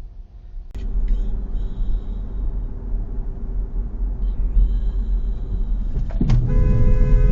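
Motor vehicle driving, a heavy low engine and road rumble that starts abruptly about a second in. Near the end a loud, steady tone with many overtones sets in and holds for over a second.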